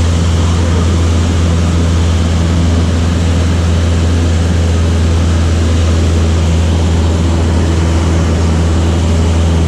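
Light aircraft's piston engine and propeller running at a steady cruise, a loud, even drone heard from inside the cockpit.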